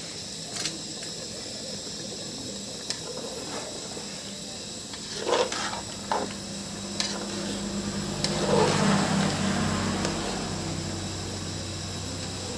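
Chicken curry sizzling and simmering in a pan with a steady hiss, broken by a few short knocks of a utensil. A low hum swells up about eight seconds in and fades again.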